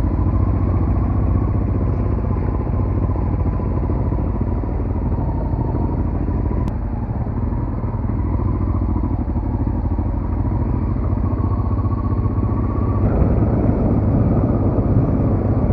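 Dual-sport motorcycle engine running steadily while the bike is ridden. It gets louder about thirteen seconds in.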